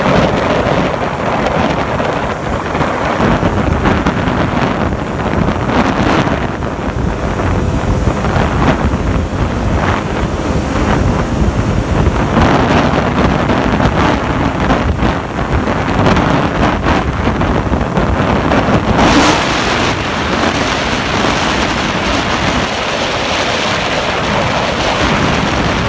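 Wind buffeting the microphone on a moving motorbike, with the small engine running steadily underneath; a louder gust about nineteen seconds in.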